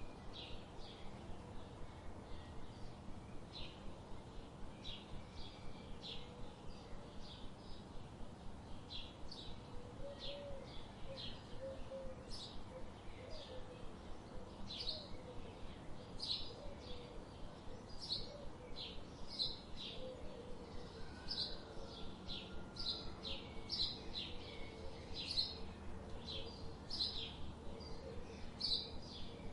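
Birds chirping: many short, high chirps one after another, with a few lower, wavering calls in the middle, over a soft steady hiss.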